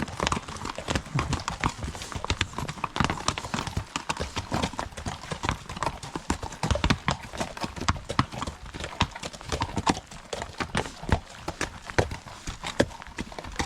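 Horses walking past, their hooves clip-clopping in a dense, uneven run of knocks.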